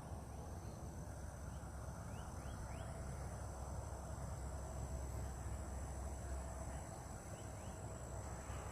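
Outdoor marsh ambience: a steady high insect drone over a low rumble, with a few short rising bird chirps about two to three seconds in and again near the end.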